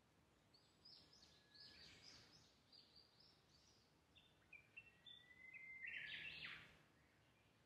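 Faint bird song: a songbird sings a run of short high chirps and whistles over a quiet background, loudest about six seconds in.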